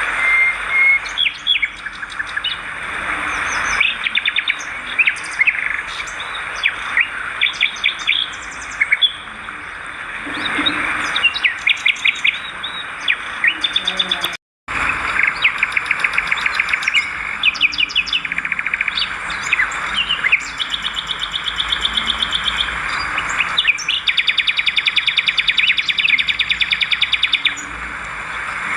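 Swiftlets twittering, with many short chirps and rapid trains of clicks. The sound drops out abruptly for a moment about halfway through.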